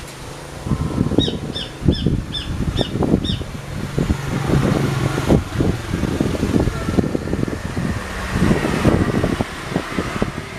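A bird gives a quick run of six short high chirps between about one and three seconds in, over continual low knocking and rustling noise; a faint steady hum comes in later.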